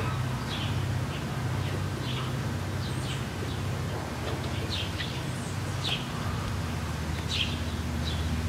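Birds giving short, high, downward-sliding chirps every second or so, over a steady low hum that shifts in pitch about six seconds in.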